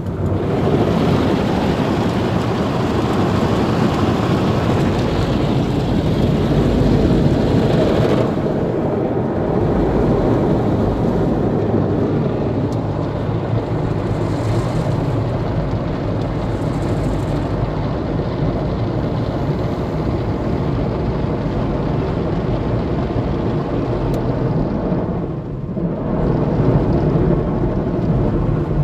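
Brush-type automatic car wash running: rotating brushes scrubbing the car and water spraying on it, a steady loud wash noise that eases briefly near the end.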